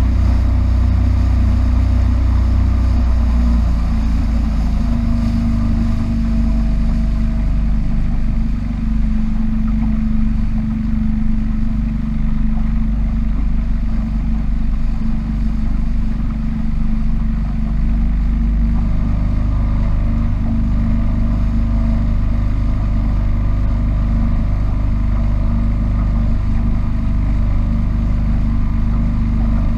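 Small powerboat's engine running steadily under way, its drone shifting in pitch a few seconds in and again about two-thirds of the way through.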